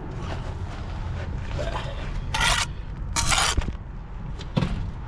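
Steel brick trowel scraping mortar, two short harsh scrapes in the middle, then a sharp tap near the end.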